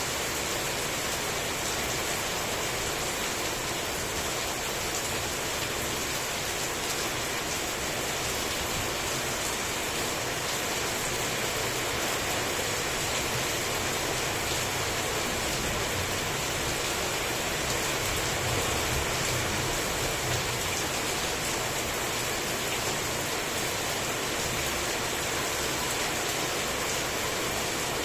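Heavy rain falling steadily, an even dense hiss of drops with no thunder heard.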